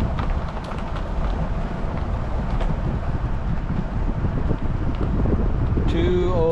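Low, steady rumble of a vehicle driving slowly, with wind buffeting the microphone; a voice begins right at the end.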